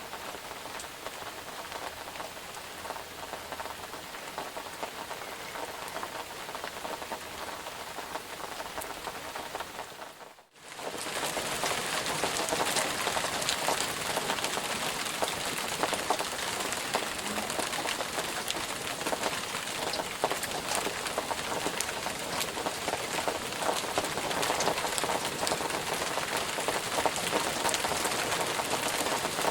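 Steady rain falling, with many individual drops heard. About ten seconds in it fades out for a moment and comes back louder and denser.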